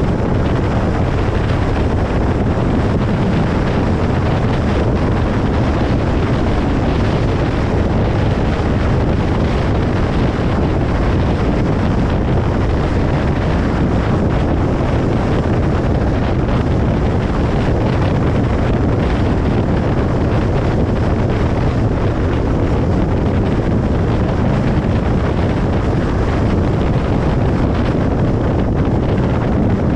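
Steady road noise of a car driving on a highway: tyre and wind noise, even and unchanging.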